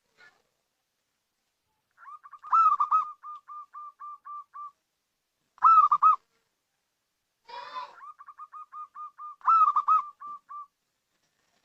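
Zebra dove (local perkutut) cooing song, used as a lure call. Phrases of rapid repeated coos come in three runs; each has a loud stuttering burst followed by softer notes at about four a second. A short, rougher call comes just before the third run.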